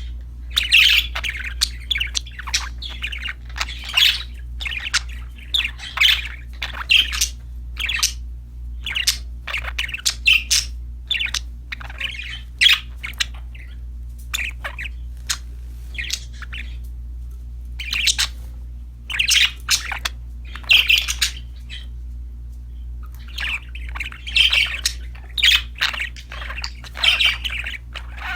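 Budgerigars chirping in quick clusters of short, high chirps and squawks, with a couple of brief lulls, over a steady low hum.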